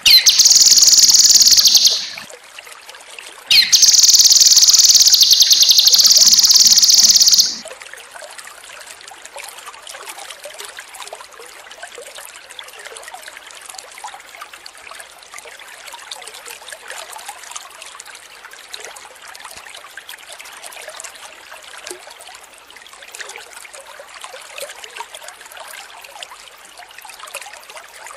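Cucak kinoi singing two loud, high, rapidly trilled phrases, the second about twice as long as the first. After about seven seconds the song stops and a steady trickle of water carries on.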